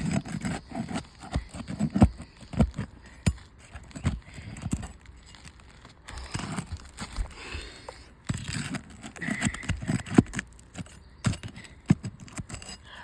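Irregular scraping, clicking and knocking of a roof snake and hands working under asphalt shingles, with occasional low thumps.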